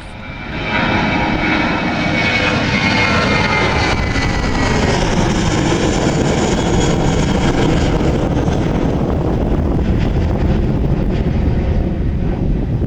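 Jet airliner passing close by. Its engine noise swells sharply in the first second and then holds loud and steady, with a high whine that falls in pitch over the next few seconds.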